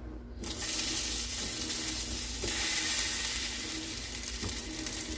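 Marinated beef riblets searing in hot olive and achiote oil: a loud sizzle starts about half a second in and swells again about two and a half seconds in.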